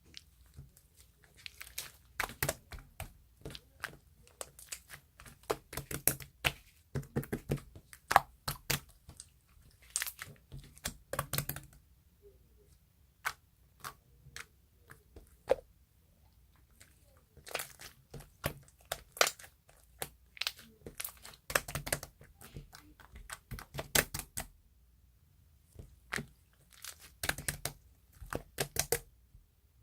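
Crinkling, crackling handling sounds with sharp clicks and tearing, in irregular bursts separated by short quiet gaps.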